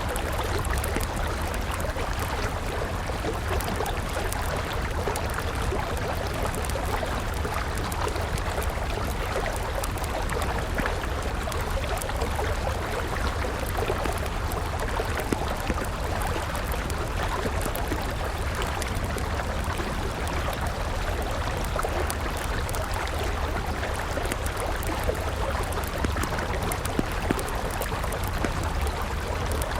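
A river flowing steadily, with a wood campfire crackling over it in occasional sharp snaps.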